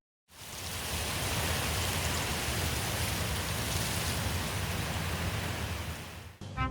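A steady, even rushing noise with a low rumble beneath, like outdoor weather ambience; it fades out about six seconds in.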